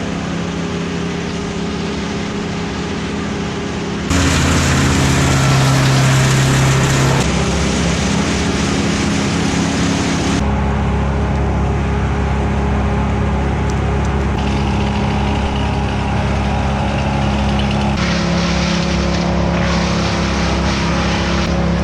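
Petrol engines of tree-cutting equipment running at a steady speed, the sound jumping abruptly to a different engine note several times.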